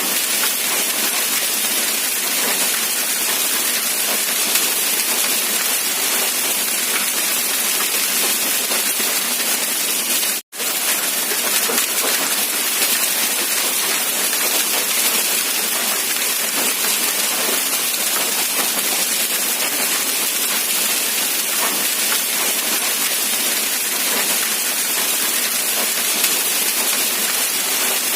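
Steady, dense hiss of heavy rain. It cuts out to silence for a split second about ten seconds in, then resumes unchanged.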